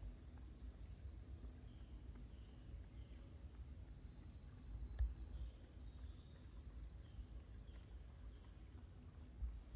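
A songbird singing a short phrase of quick, high chirping notes a few seconds in, over a faint low rumble. A single sharp click comes in the middle of the song.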